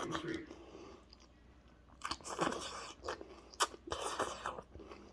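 A person chewing a mouthful of rice mixed with dal, greens and soaked peas, in several short wet bites with faint crunching, starting about two seconds in.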